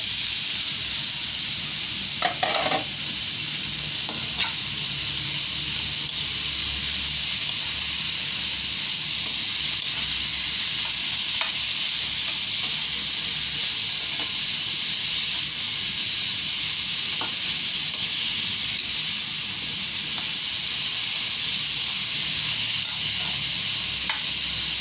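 Shredded bamboo shoots sizzling in hot oil in a wok as they are sautéed, with a spatula stirring and scraping the pan a few times. The sizzle jumps up as the shoots go in at the start, then holds steady and loud.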